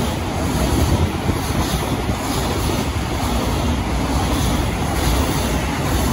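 Container wagons of a freight train passing at speed close by, a steady, loud rumble and rush of steel wheels rolling on the rails.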